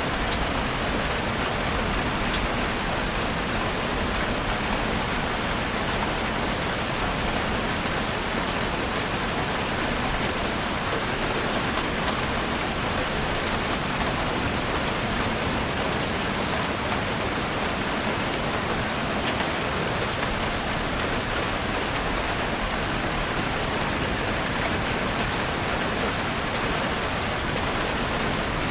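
Heavy rain falling steadily on a roof, a dense even hiss with many fine drop ticks throughout.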